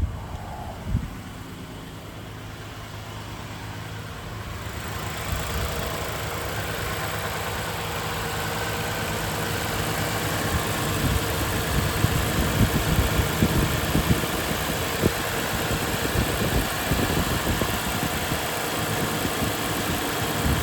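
2020 Toyota Sienna's 3.5-litre V6 idling after its front-of-engine repair for a worn water pump bearing, which the owner judges better. The running noise grows louder about five seconds in, with a couple of sharp clicks near the start.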